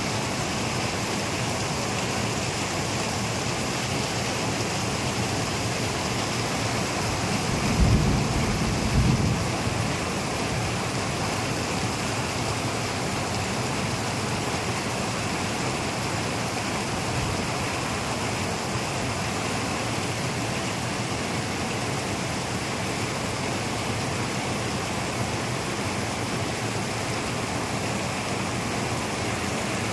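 Steady rain falling, with a low rumble of thunder about eight seconds in that lasts a couple of seconds.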